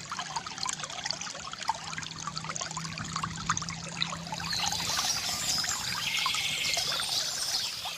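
Water trickling and gurgling from a bamboo fountain: a continuous run of small splashes that grows a little louder past the middle.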